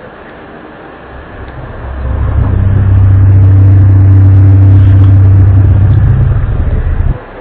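A loud, low droning rumble with a steady pitched hum, swelling up over about two seconds, holding steady, then dropping out briefly near the end.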